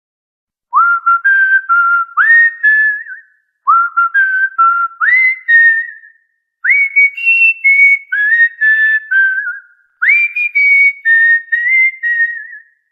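Cockatiel whistling a short melody in four phrases, each opening with a rising swoop into steady notes, the first two phrases nearly alike.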